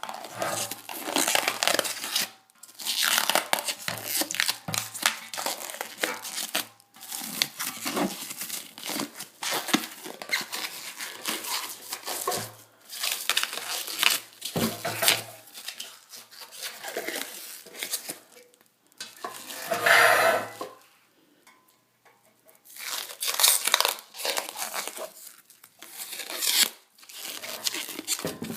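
Plasti Dip rubber coating being peeled by hand off a painted motorcycle fuel tank: irregular tearing and crinkling as the film comes away in sheets, with short pauses between pulls.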